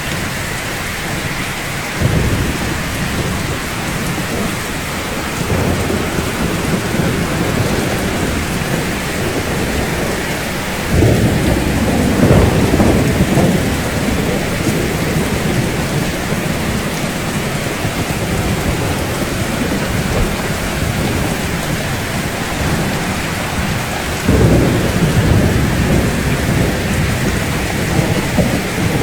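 Steady rain falling, with several rolls of thunder rumbling low under it; the strongest rolls set in near the middle and near the end.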